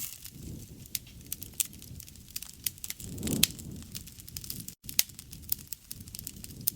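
Campfire of burning wood crackling and popping, with many sharp snaps over a low rush of flame that swells briefly about halfway through.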